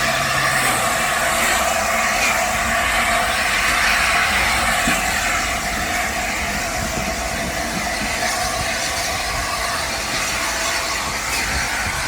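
LNER A4 Pacific steam locomotive 60007 Sir Nigel Gresley on the move, a steady hissing rumble of the engine and train that slowly fades.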